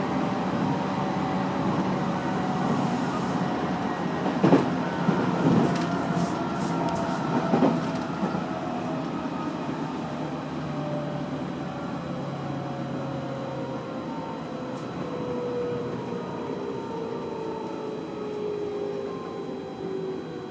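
JR Central 311 series electric multiple unit slowing into a station: the traction motor and inverter whine falls steadily in pitch under braking over the running noise. A few sharp wheel knocks over rail joints come in the first eight seconds.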